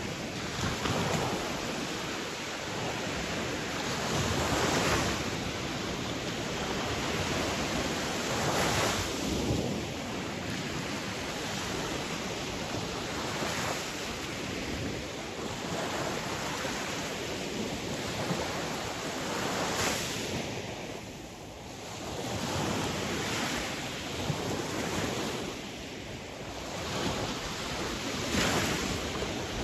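Sea waves washing in a steady rush of surf, swelling as a wave breaks about every four to five seconds.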